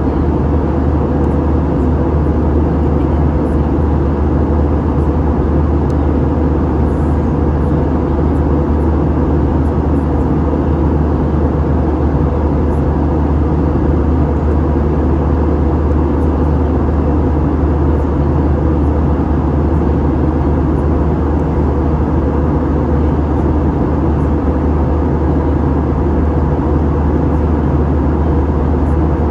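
Steady cabin noise of an Airbus A321 airliner: the jet engines and the rush of air hold an even drone with a low hum, heard from inside the cabin.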